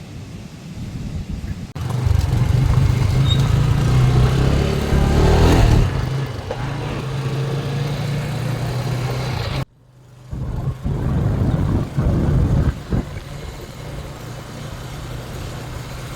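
Motorcycle engine running steadily while riding, with road and wind noise. It cuts off abruptly for a moment about ten seconds in, then carries on.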